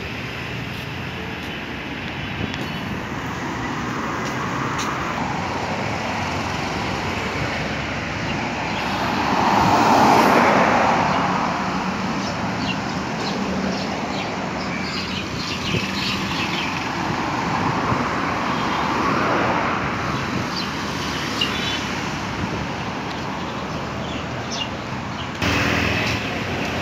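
Road traffic: a steady hum of vehicles, with cars passing one after another, the loudest passing about ten seconds in.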